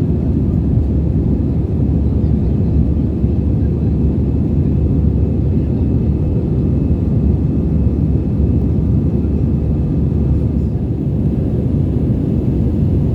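Airbus A320 cabin noise: a steady low rush of engine and airflow with faint steady whining tones above it.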